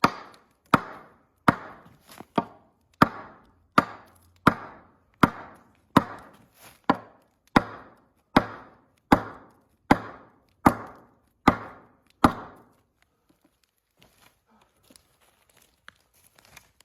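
Evenly paced chopping strikes on wood, about one every three-quarters of a second, each a sharp hit with a short ringing tail. About seventeen strikes, stopping around twelve seconds in, followed only by a few faint small knocks.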